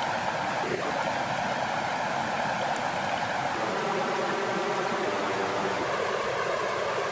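Steady rushing of flowing water at lake's edge, an even wash of noise with no breaks.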